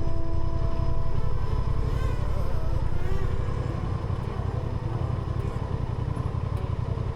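Motorcycle engine running steadily while riding, a constant low rumble.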